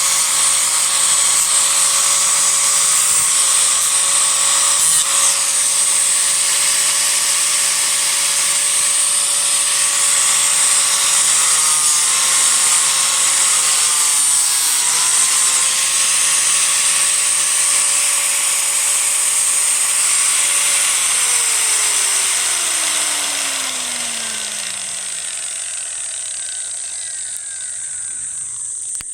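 Disc grinder running at speed on a cedar offcut, its whine dipping in pitch twice midway as it is pressed into the wood. About two-thirds of the way through it is switched off, and the whine falls steadily as the disc spins down. A steady high insect drone runs underneath throughout.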